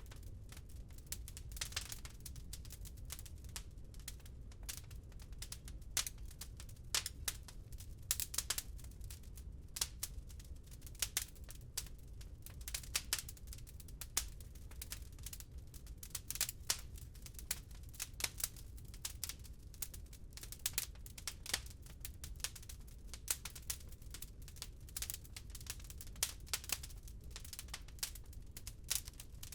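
Wood fire crackling, with dense irregular snaps and occasional louder pops, over a low steady rumble.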